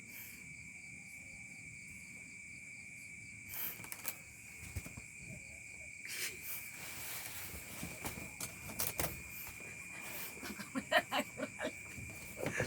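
Crickets chirring steadily in the background as one continuous high tone, with scattered light rustles and scuffs that grow busier near the end.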